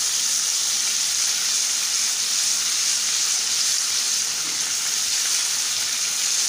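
Crushed ginger and whole spices sizzling steadily in hot ghee in a wok as they are stirred with a silicone spatula.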